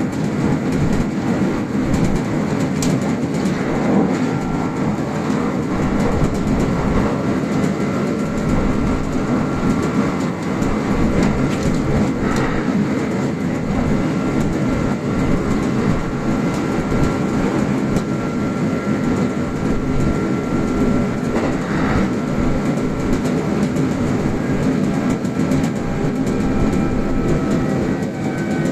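Kintetsu express electric train running at speed on standard-gauge track, heard from inside the front car. A steady rumble of wheels on rail, with a faint steady whine above it.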